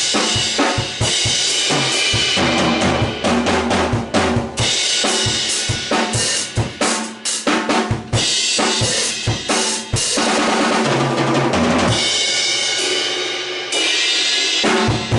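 Acoustic drum kit played continuously for a tone check: bass drum and snare hits under a constant wash of cymbals. The playing eases briefly about twelve seconds in, then picks up again.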